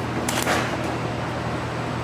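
Gas brazing torch flame hissing steadily while heating cast iron for brazing, with a brief louder rush about half a second in.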